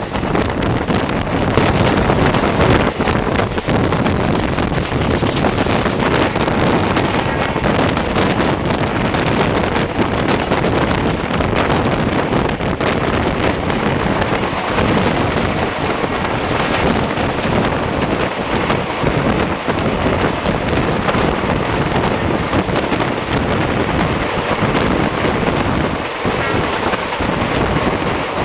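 Express train running at speed, heard from on board a coach: a steady rush and rumble of wheels on the rails, with heavy wind buffeting the microphone.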